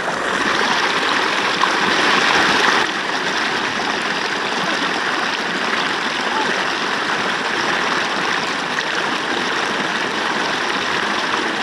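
River water rushing past a bamboo raft. It is louder for the first three seconds, then drops suddenly to a steady rush.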